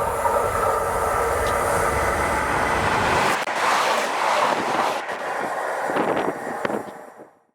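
A train passing close by on the track. A deep rumble with a steady whine gives way, a little over three seconds in, to a rushing noise with sharp wheel clicks. The sound cuts off abruptly near the end.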